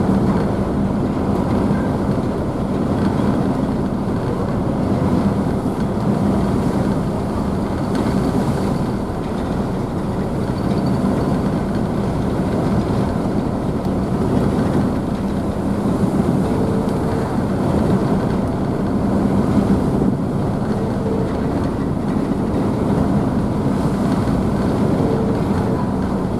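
A car ferry's engines running with a steady low hum over the constant rushing spray of its wake, heard from the stern deck.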